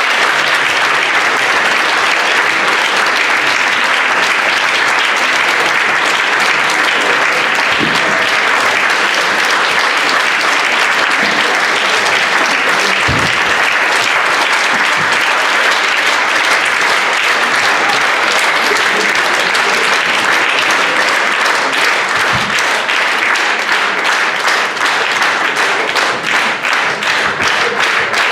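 An audience applauding, a dense and steady clapping. Near the end it thins out, so that single claps stand out.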